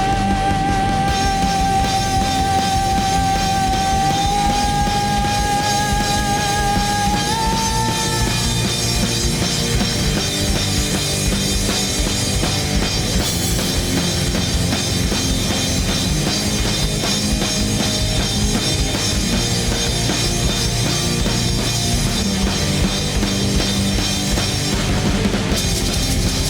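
A rock band playing with distortion and a drum kit. A long held high note with vibrato steps up in pitch twice in the first eight seconds, then the full band carries on loud and dense.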